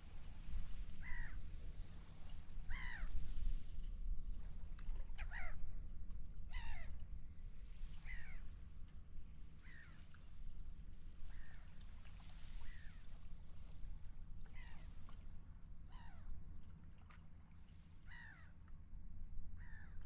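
Seagulls calling again and again, short cries that fall in pitch, about one a second, over a steady low rumble of wind and water.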